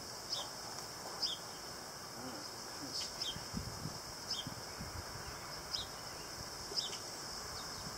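A bird repeats a short, high two-note chirp about once a second, over a steady high hiss.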